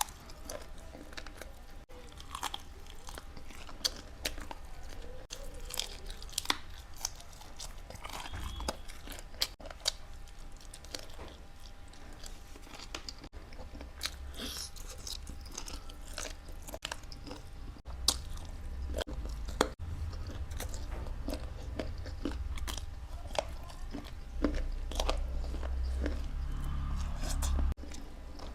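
Close-miked chewing and crunching of food, with many irregular sharp crunches. A low rumble swells near the end.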